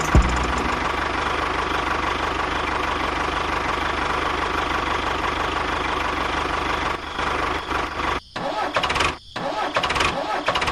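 Small motor running steadily with a fine, rapid rhythm. It turns uneven about seven seconds in and drops out briefly twice near the end.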